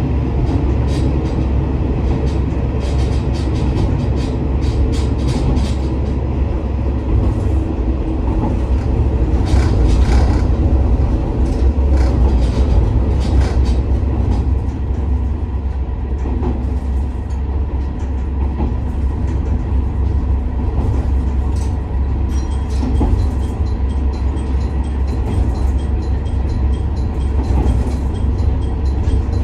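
A JR West KiHa 47 diesel railcar under way, heard from inside the car: a steady low rumble of the engine and running gear, with irregular clicks of the wheels over rail joints. The clicks come thickest in the first half and again near the end.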